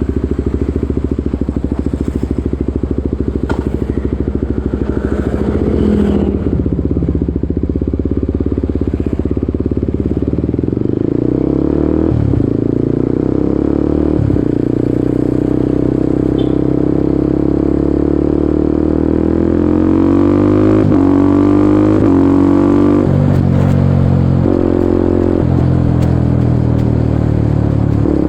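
Kawasaki Ninja 250SL's single-cylinder engine running through an aftermarket KEA Speed NA 1 exhaust while ridden. The revs climb and drop sharply a few times, as at gear changes, with a longer steady climb through the middle.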